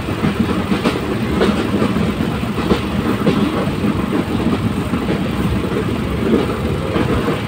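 Moving train heard from on board: a steady rumble with frequent, unevenly spaced clacks of the wheels and carriage.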